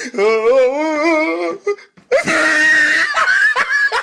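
Meme sound-effect clips: a person's wavering, wailing voice for about a second and a half, then after a brief break a harsh, noisy cry that holds to the end.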